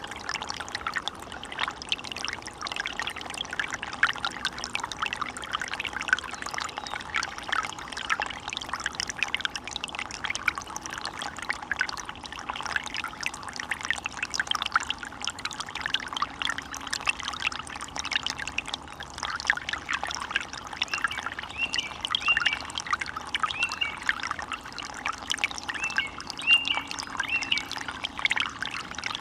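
Running water in a small stream, trickling and babbling steadily.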